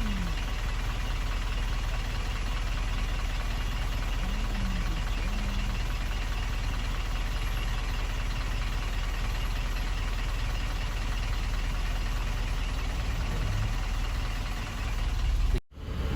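A truck's diesel engine running steadily with a low, even hum. It cuts off abruptly near the end.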